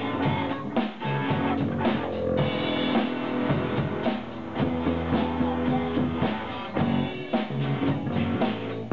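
Live rock band playing an instrumental passage: guitar and bass over a steady drum-kit beat, with no singing.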